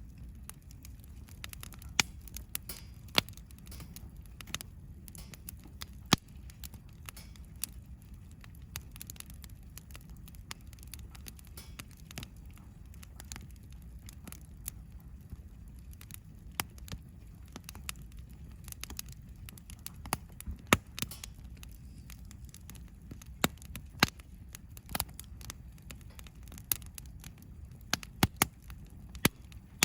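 Wood campfire crackling, with irregular sharp pops, a few of them loud, over a steady low rumble.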